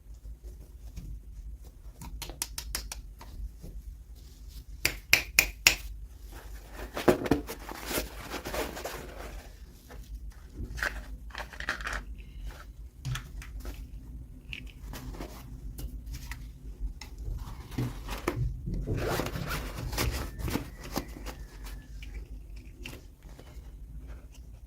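Toy packaging being handled and opened: runs of sharp clicks, the loudest a few seconds in, and stretches of rustling and scraping.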